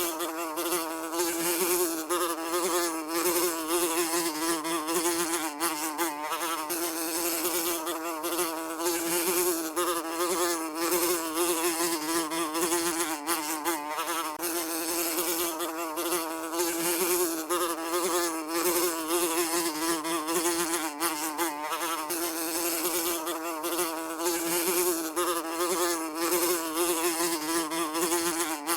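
Housefly buzzing continuously, its wingbeat hum wavering slightly in pitch and loudness.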